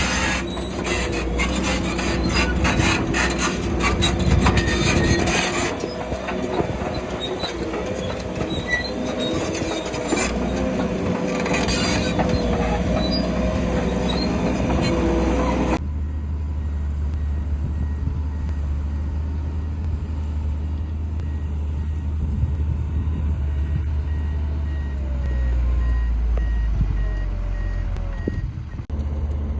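Shantui bulldozer working: its steel tracks squeal and clank over the diesel engine. About halfway through the sound changes abruptly to a steady low diesel rumble with a faint, evenly repeated beep like a reversing alarm.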